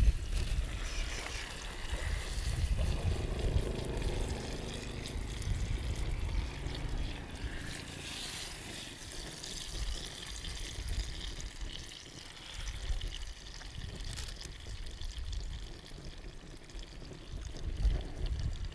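Water lapping and trickling at a lake's edge, with a low, gusting wind rumble on the microphone.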